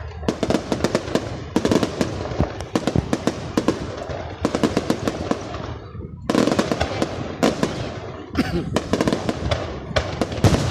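Fireworks display: a rapid, dense run of bangs and crackles, easing off for a moment about six seconds in before a new volley starts.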